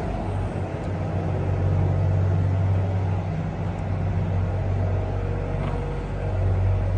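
Backhoe engine running steadily, a continuous low drone.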